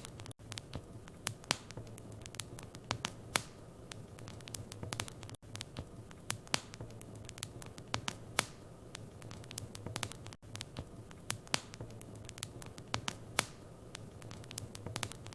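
Wood fire in a fireplace crackling, with frequent irregular sharp pops over a steady low rumble of the flames. The sound cuts out for an instant about every five seconds.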